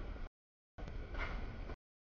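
Freight train of loaded trash cars rolling past a grade crossing, a steady rumble of wheels on rail. The audio twice drops out to dead silence, for about half a second each time.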